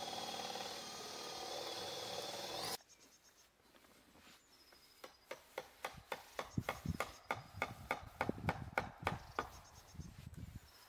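Brush strokes on rough wooden shed boards: quick scrubbing strokes, about four a second, as a coat is brushed onto the siding. They are preceded by a steady dense sound with a high tone that cuts off suddenly about three seconds in.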